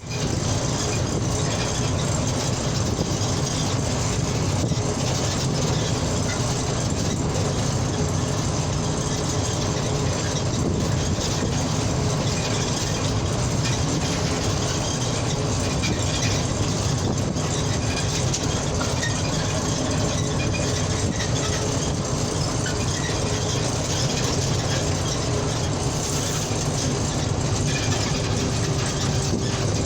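Steady engine and tyre noise of a car driving at highway speed, with a faint steady hum and no sudden changes.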